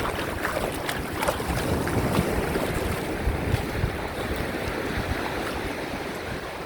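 Small ocean waves washing in shallow surf, with wind buffeting the microphone. A few light splashes in the first second or two.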